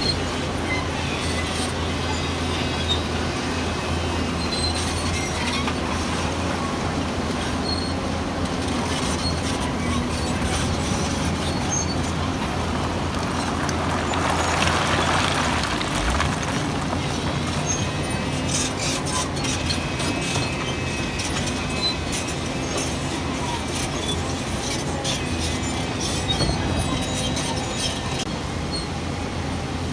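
Diesel engine of heavy earthmoving machinery running steadily under load, swelling louder about halfway through, with a clatter of knocks and rattles in the later part.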